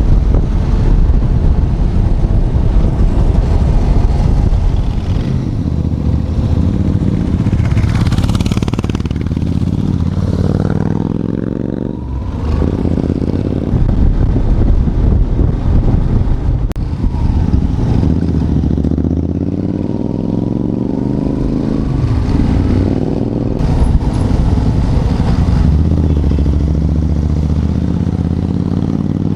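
Yamaha FZS's single-cylinder engine running under way, with heavy low wind rumble on the microphone. The engine note rises and falls a few times as the rider changes throttle.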